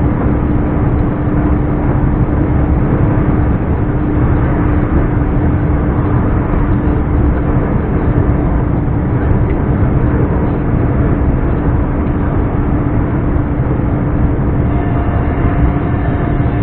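Scania R420 truck's turbocharged diesel engine running steadily while driving, with a constant hum and no gear changes or revs.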